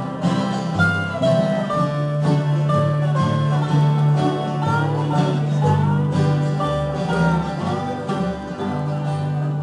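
Bluegrass band playing an instrumental passage: banjo and guitar picking with dobro, mandolin and bass, some notes sliding in pitch over a steady bass line.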